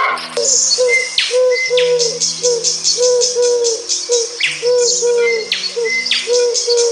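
Bird calling: a short cooing note repeated about three times a second, with higher chirps and quick falling whistles, over steady low held tones.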